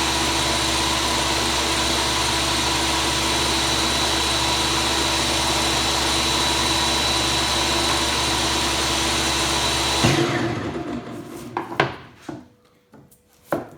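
Electric power tool running steadily while cutting grooves in wooden side pieces. It is switched off about ten seconds in and winds down, followed by a few sharp knocks of wood being handled.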